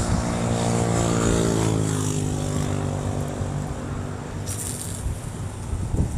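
An aircraft passing by: a droning note with many overtones that slides slowly down in pitch and fades away.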